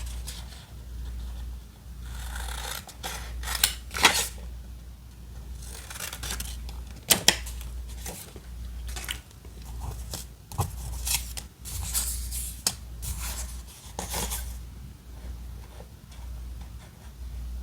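Scissors cutting paper in irregular snips, with paper rustling between the cuts.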